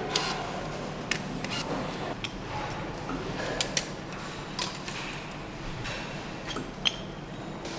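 Engine assembly workshop noise: a steady low hum with scattered sharp metallic clicks and clinks of tools and parts being handled, the loudest click near the end.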